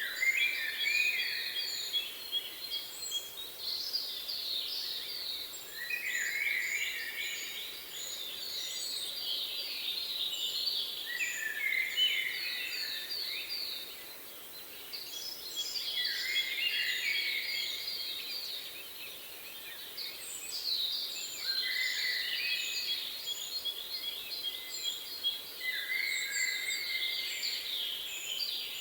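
Several songbirds singing at once in overlapping phrases: rapid trills, lower warbling phrases that return about every five seconds, and runs of short high piping notes.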